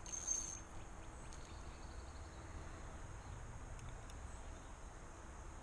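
Outdoor ambience: a brief high-pitched chirp right at the start, then a steady low rumble with faint high-pitched calls.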